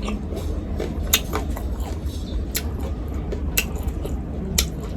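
Eating at close range: scattered small clicks and smacks, about a dozen over a few seconds, over a low steady rumble.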